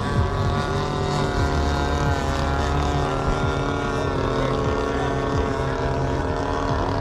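An engine running at a steady idle, its pitch unchanging.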